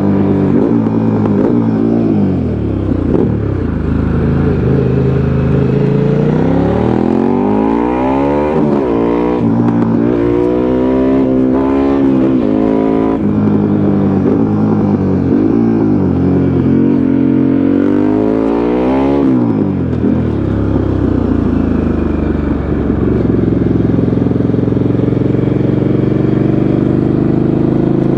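Motorcycle engine and exhaust heard onboard while riding, the revs repeatedly climbing and dropping through the middle with gear changes, then holding steadier near the end.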